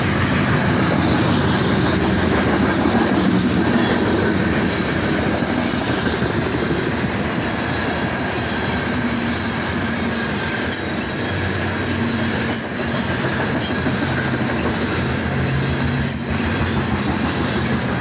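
Loaded coal cars of a BNSF unit coal train rolling past close by: a steady rumble of steel wheels on the rails, broken by occasional sharp clicks.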